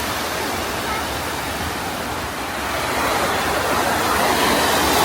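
Sea surf washing onto a sandy beach: a steady rush of water noise that swells in the second half.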